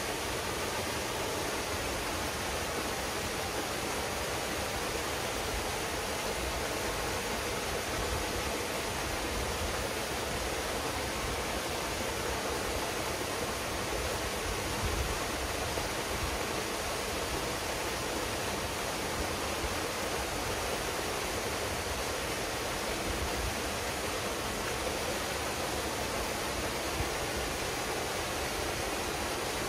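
Waterfall pouring steadily into a pool: a constant, even rush of falling water.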